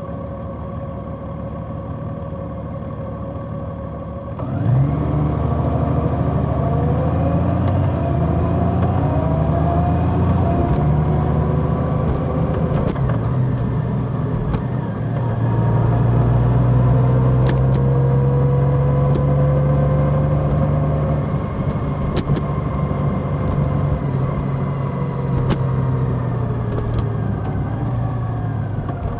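Large motorcycle's engine and wind noise while riding. About four and a half seconds in the engine gets suddenly louder and its note rises as it accelerates, then holds fairly steady at speed, dropping a little near the end.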